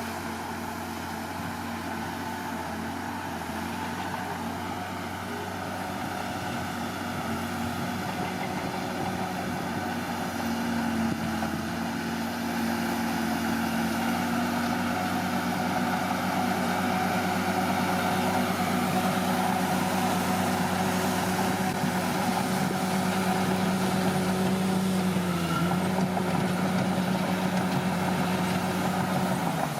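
Diesel engine of a Komatsu D41P bulldozer running steadily while working, growing louder over the first half. Its pitch dips briefly near the end, as if under a momentary load.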